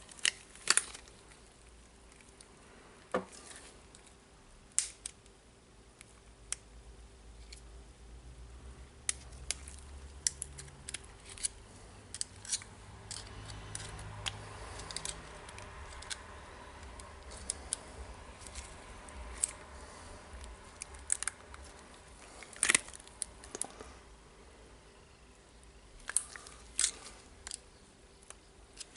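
Scattered sharp clicks and taps of small metal parts being handled and worked into a DeWalt D25003 rotary hammer's gear housing during reassembly, with a faint low rumble through the middle.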